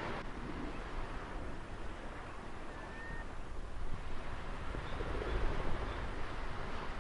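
Ocean waves washing ashore with wind, a steady rush with a deeper surge about five seconds in. A brief faint high note sounds about three seconds in.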